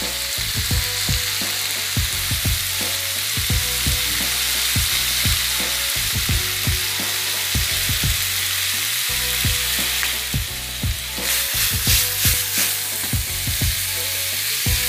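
Pork pieces sizzling in soy sauce in a hot frying pan, stirred with a wooden spoon against the pan. There is a steady sizzle throughout, with a run of louder stirring strokes about ten seconds in.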